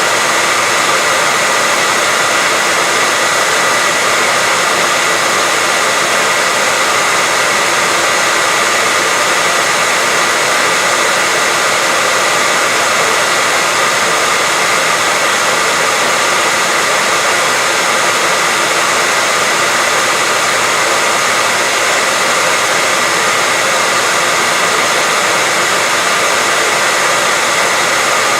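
Steady white noise, a continuous even hiss strongest in the upper range, with a faint steady tone running through it.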